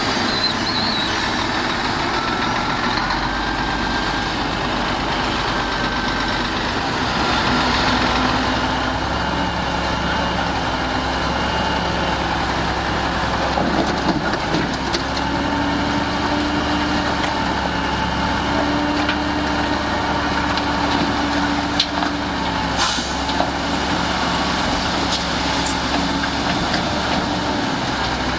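Heavy diesel engines of earth-moving machines running steadily, their pitch shifting as they work, with a few sharp knocks about halfway through and again near the end.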